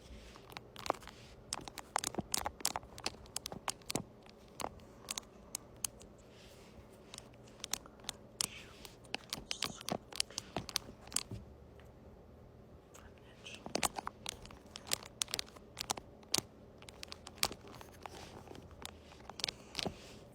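Close-miked ASMR scratching: quick, irregular scratching strokes and crackles in clusters, with a short lull a little past halfway.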